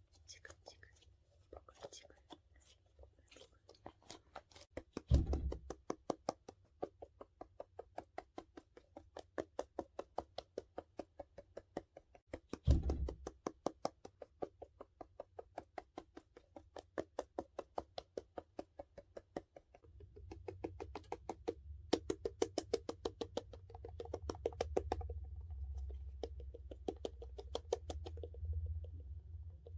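Fingernails tapping quickly and evenly on the plastic case of a dumpling squishy toy, about five taps a second. Two dull thumps come in between, and in the last third the tapping gets denser over a low rubbing sound.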